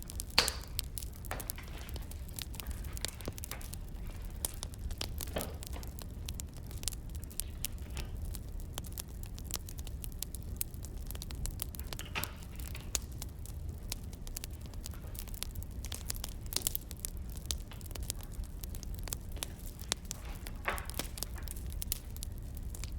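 Wood fire crackling, with dense irregular snaps and a few louder pops over a steady low rumble.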